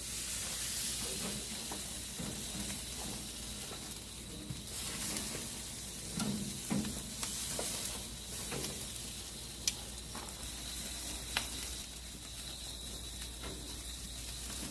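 Whole pork belly sizzling on a barbecue grill, its dripping fat hissing on the fire beneath and feeding flare-ups. A steady hiss, with two sharp crackles about two-thirds of the way through.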